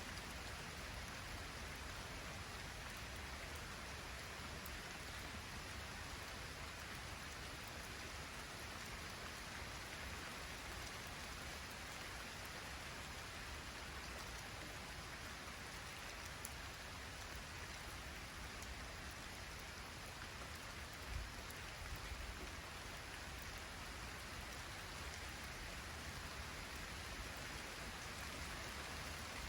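Light rain falling steadily, with a low wind rumble underneath. A brief louder low gust comes about two-thirds of the way through.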